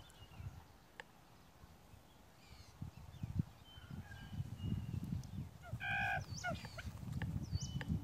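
Outdoor bird calls: one short, harsh, honk-like call about six seconds in, with thin whistles and upward-swooping chirps from small birds around it. Low rustling and a couple of clicks come from handling the brush and trap.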